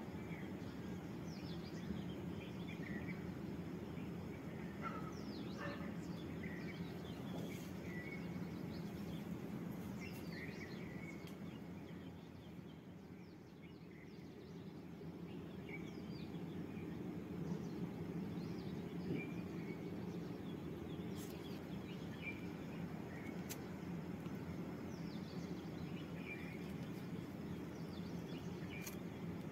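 Faint bird chirps, short and scattered, over a steady low background hum.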